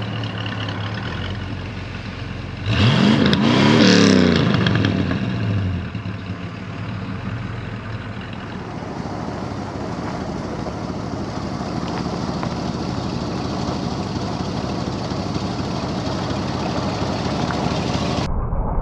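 1969 Chevrolet El Camino's 350 small-block V8 running on the road, revving up hard about three seconds in and easing back down about two seconds later. The exhaust has a leak that the owner puts down to the donut gasket. Near the end the sound abruptly turns muffled.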